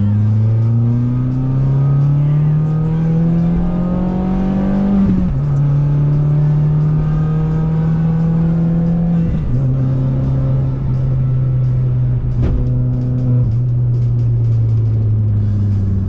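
Citroën C2 VTS's 1.6-litre 16-valve four-cylinder petrol engine pulling under acceleration, its pitch rising steadily for about five seconds. It then drops sharply at an upshift, holds, and drops again around nine seconds in at a second shift before easing down slowly while cruising.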